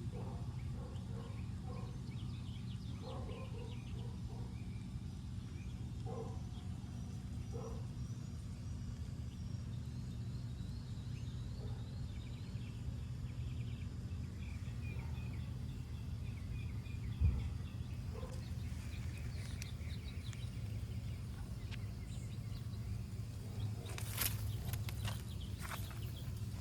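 Outdoor garden ambience: a steady low rumble with faint, scattered bird calls. There is a single low thump partway through and a few sharp clicks near the end.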